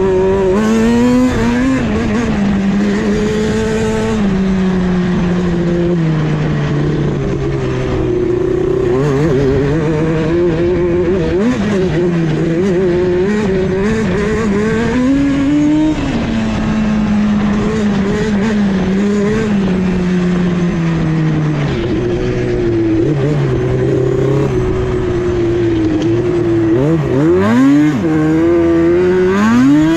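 Yamaha Banshee's twin-cylinder two-stroke engine running under way through a MOTOFAST 2-into-1 exhaust, its pitch holding for a few seconds at a time and then stepping up or down with throttle and gear changes. Several quick revs rise and fall near the end.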